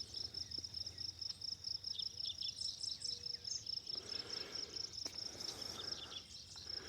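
Insects, crickets by their sound, chirping in a fast, even, high-pitched pulse, with scattered other chirps over it and a soft rustle about four seconds in.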